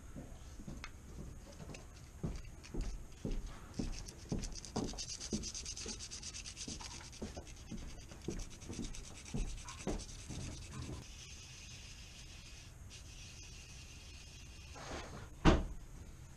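Sandpaper rubbing a furnace flame sensor rod in short repeated strokes, about one or two a second, to clean off the buildup blamed for the flame signal dropping out. After a pause, one sharp knock near the end.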